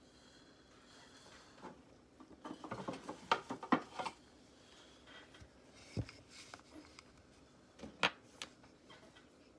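Handling sounds of small tools and metal parts at a workbench: a busy run of clicks and scrapes a few seconds in, a single low knock about six seconds in, and a sharp click near eight seconds.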